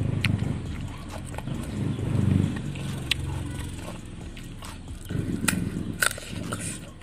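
Close-up chewing and crunching of raw vegetables (lalapan) with sambal, wet mouth sounds mixed with sharp crunches. A few sharper crunches come about five to six seconds in as a fresh piece is bitten.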